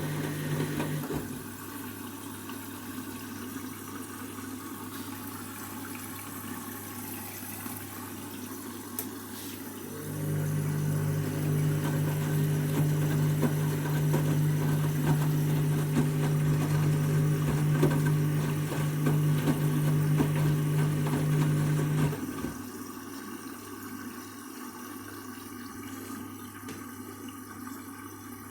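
Candy Grand'O Vita washing machine at work, water moving in the drum, with a steady electrical hum from its pump or water valve that stops about a second in, starts again about ten seconds in and cuts off at about twenty-two seconds.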